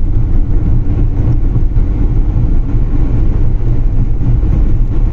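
Steady low rumble of a car on the move: road and engine noise, loudest in the bass.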